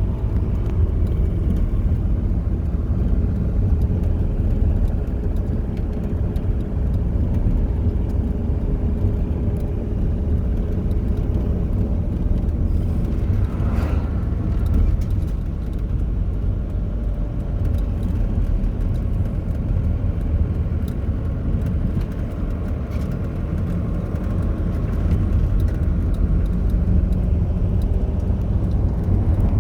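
A motor vehicle running: a steady low rumble, with a brief louder sweep about halfway through.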